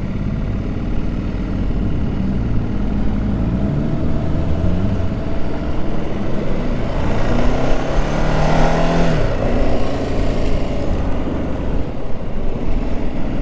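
Ducati Multistrada 1200 S L-twin engine accelerating under way, its pitch climbing twice with a drop between and a fall about nine seconds in, as with gear changes. A rushing noise swells as speed builds.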